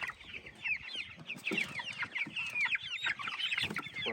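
A crowd of 3-week-old Cornish Cross broiler chicks peeping: many short, high, falling chirps overlapping without pause.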